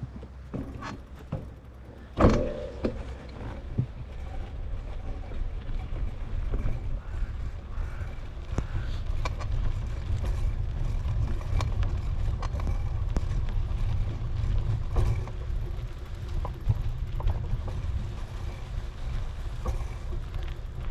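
Wind buffeting the microphone while riding a bicycle: a steady low rumble that grows stronger a few seconds in, with scattered small clicks and rattles. There is one sharp knock about two seconds in.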